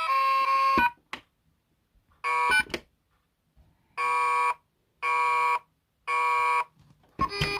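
Children's battery-operated electronic toy playing tinny electronic tones: a tune breaks off a little under a second in, a click and a short burst follow, then three identical beeps about a second apart, like an alarm. The tune starts again near the end.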